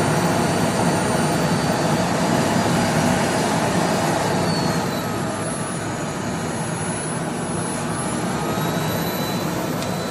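Aspiron 1200 W bagless canister vacuum cleaner running at full power: a steady, loud rush of air over a high motor whine that shifts slightly in pitch about halfway through. A click comes at the very end.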